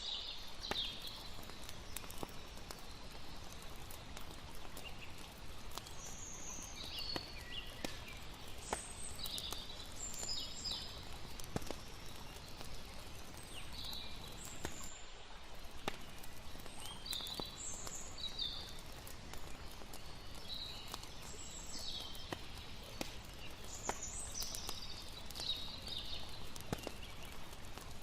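Layered night ambience: a steady wash of water, sharp pops of a crackling campfire, and scattered short high chirps of night creatures.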